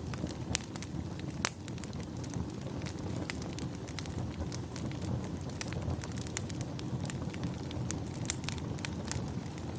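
Wood fire crackling in a fireplace: frequent irregular sharp pops and snaps over a steady low rumbling hiss.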